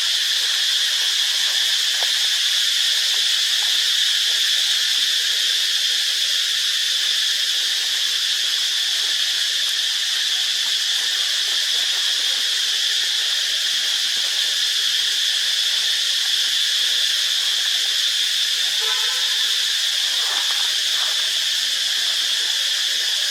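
A dense, steady chorus of insects: a continuous high-pitched buzz that does not change.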